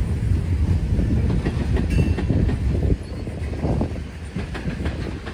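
Norfolk Southern freight train rolling past, its car wheels clacking over the rail joints over a low rumble; the sound drops noticeably about three seconds in.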